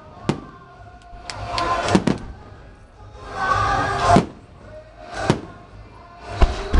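Aerial fireworks display: sharp bangs of shells bursting, one just after the start, one around five seconds in and one near the end, with music that has held tones swelling and cutting off twice in between.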